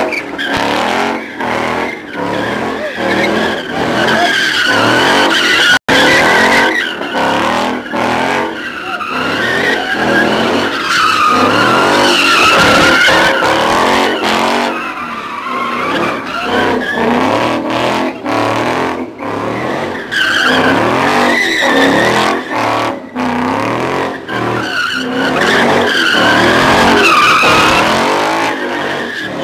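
A car doing burnouts and drifts: tires squealing in long wavering screeches over a revving engine.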